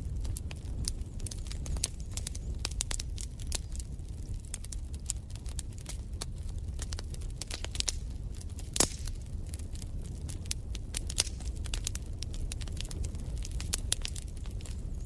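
Wood fire in a fireplace crackling: a constant scatter of small sharp pops and snaps over a low steady rumble, with one louder pop a little past halfway.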